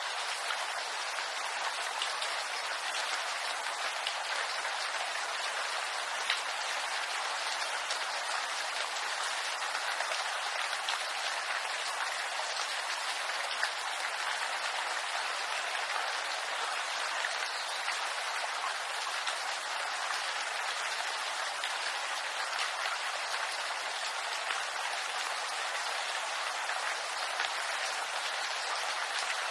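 Steady rain falling on bamboo leaves: a dense, even patter with an occasional louder single drop.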